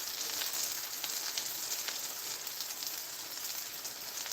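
Pancakes frying in a hot pan: a steady sizzle with scattered small crackles.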